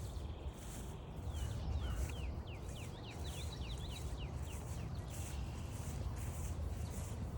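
Footsteps on a trail at a steady walking pace, about two steps a second. From about a second in, a songbird sings a quick run of down-slurred whistled notes for about three seconds.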